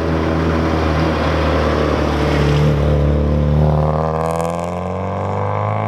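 Volkswagen Golf Mk2 driving by, its engine running steadily, then falling in pitch over the last two seconds as the car pulls away.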